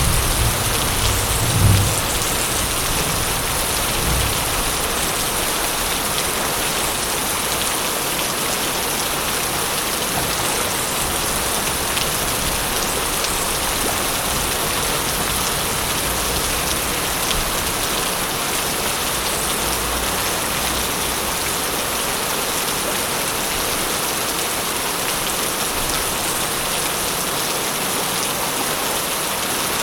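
Steady rain with thunder rumbling low in the first couple of seconds, a smaller rumble about four seconds in, and a faint distant roll again partway through.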